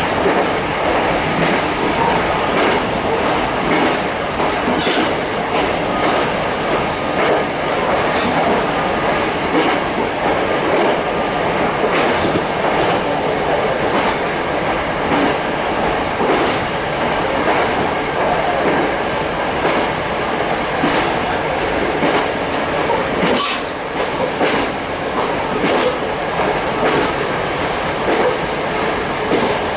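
Running noise inside a diesel railcar under way: a steady rumble of wheels on rail with irregular clicks over rail joints. A short high squeal comes about halfway through.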